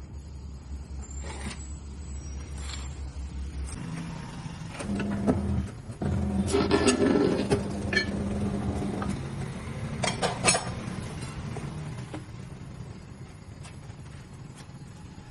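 Truck tire repair work: a low steady hum, then clanks and knocks of metal tools and parts, loudest about halfway through.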